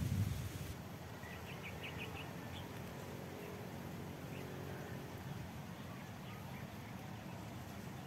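A small bird chirping faintly: a quick run of about six short high notes a second or so in, then a few scattered single chirps, over a quiet outdoor background. Leaves brushing loudly stop just after the start.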